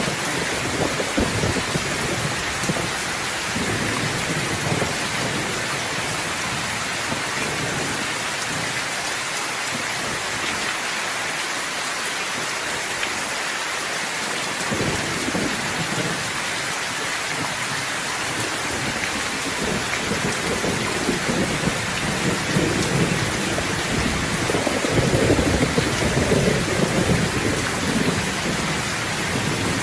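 Steady rain pouring, with thunder rumbling low underneath. The rumble builds over the last third and is loudest about 25 seconds in.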